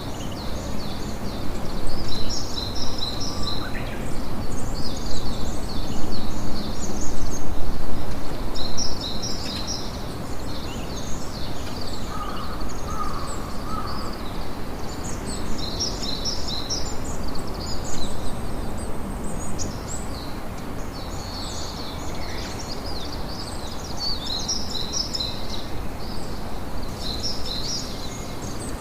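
Campfire nature ambience: small birds twittering in repeated high bursts over a steady low rushing noise, a little louder in the first third.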